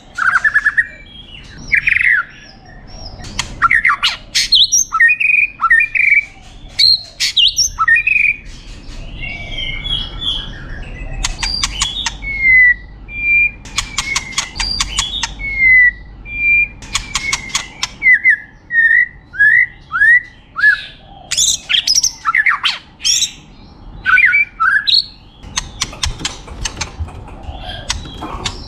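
White-rumped shama singing a long, varied song: clear whistled phrases, a run of short falling notes, and several fast, dry rattling trills.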